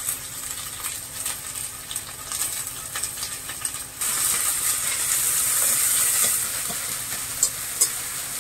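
Chopped onion and ginger-garlic paste sizzling in hot oil in a kadai while being stirred, with sharp scrapes and clicks. The sizzle swells louder about four seconds in.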